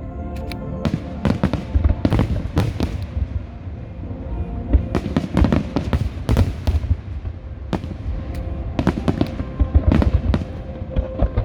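A fireworks display: many sharp bangs and crackles in quick clusters, with music playing underneath.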